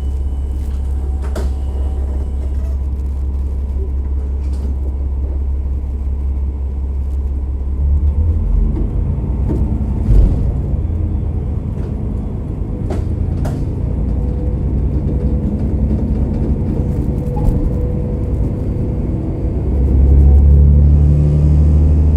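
A KiHa 47 diesel railcar's engine running with a steady low drone, heard from inside the car, with scattered sharp clicks from the running gear. The engine note shifts about eight seconds in and grows louder near the end.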